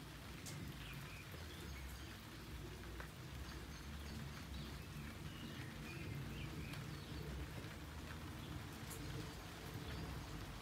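Birds chirping faintly and sporadically in trees, short high chirps scattered through, over a steady low rumble of outdoor background noise.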